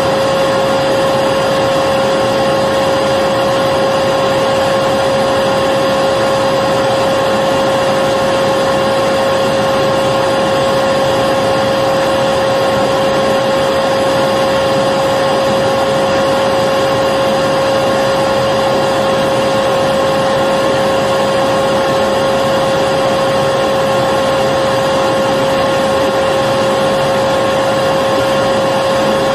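Electric vacuum cleaner running steadily: an unchanging motor whine over an even rush of air, with no change in pitch or level.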